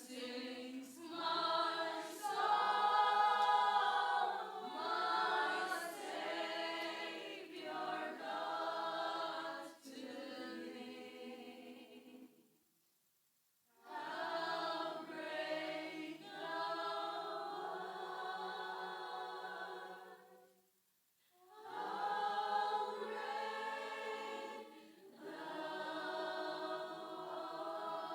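A group of voices singing a worship song in phrases, with two short breaks between lines, about halfway through and about two-thirds of the way through.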